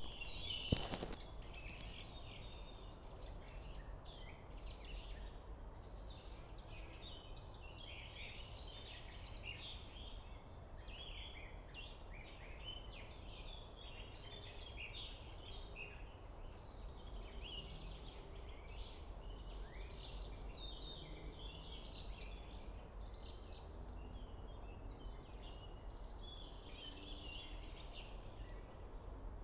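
Several songbirds singing and calling at once, a dense mix of short high chirps and phrases overlapping throughout, over a steady low rumble. A single sharp click about a second in.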